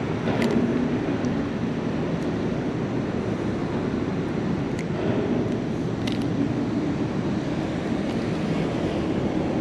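Steady rush of water pouring over a low-head river dam, with a few faint clicks.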